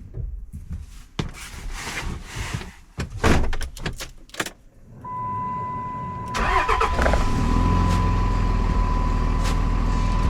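A few seconds of clicks and knocks from handling things, then a steady high electronic tone. About six seconds in, an engine starts with a loud burst and settles into a steady idle, with the tone still sounding.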